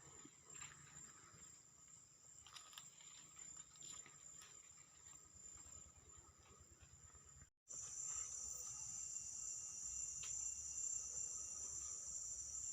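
Steady high-pitched chorus of forest insects, a continuous shrill drone. It cuts out for a split second about seven and a half seconds in and comes back louder.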